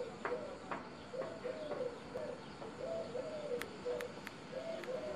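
A bird calling: a low call repeated in short phrases that step down in pitch, over and over. A few sharp clicks come about three and a half to five seconds in.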